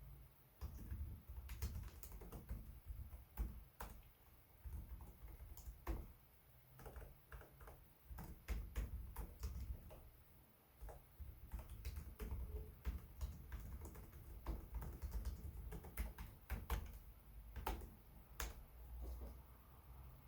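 Typing on a Lenovo Legion 5 Pro laptop keyboard: irregular key clicks in quick runs with short pauses, each keystroke carrying a low thud.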